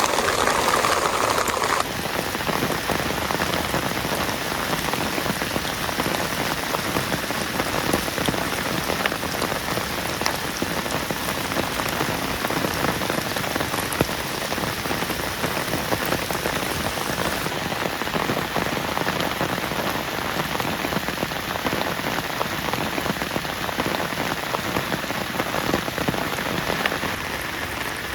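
Heavy rain falling steadily, a dense patter of many drops. The sound changes abruptly and drops slightly in level about two seconds in.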